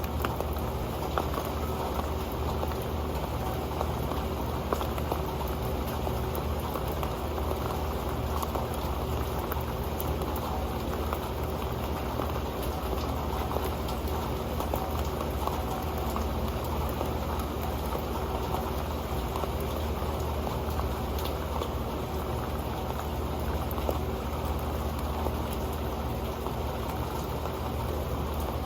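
Rain falling steadily onto an old metal pan, a dense patter of drops on metal with a steady rain hiss behind it.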